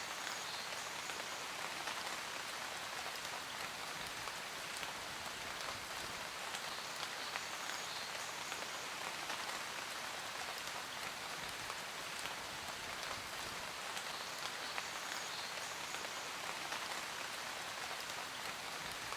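Steady rain falling: an even hiss made of many small drop ticks, unchanging throughout.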